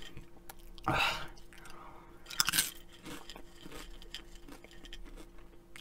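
Crunching and chewing of Flamin' Hot Cheetos close to a microphone: faint scattered crackles, with two louder crunches about a second and two and a half seconds in.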